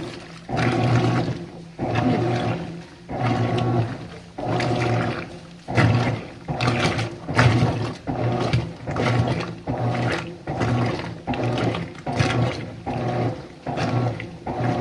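Whirlpool WTW5010LW0 top-load washer's impeller agitating during the wash phase: the motor hums in short, regular strokes with water sloshing, each stroke cutting off before the next. The strokes come about every second and a half at first and quicken to about one every 0.7 seconds later on.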